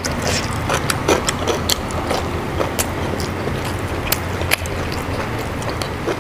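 Close-miked eating of raw vegetables and rice: irregular crisp crunches, clicks and mouth sounds of chewing, over a steady low hum.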